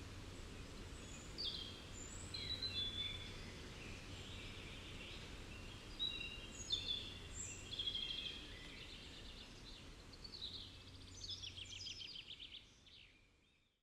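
Birds chirping and calling, with short repeated notes and a fast trill near the end, over a faint steady low hum. The sound fades out just before the end.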